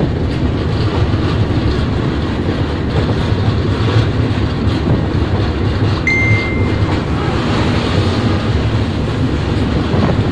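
Intercity passenger train running at speed, a loud steady rumble heard from aboard at an open door. A brief high-pitched tone sounds once, about six seconds in.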